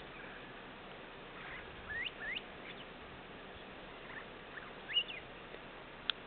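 Birds calling outdoors: short, rising whistled chirps, two close together about two seconds in and a louder one near five seconds, over a steady hiss. A brief sharp click comes near the end.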